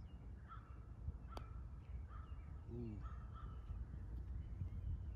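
A bird calling, four short, evenly pitched notes about a second apart, over a low steady rumble. A single sharp click comes about a second and a half in.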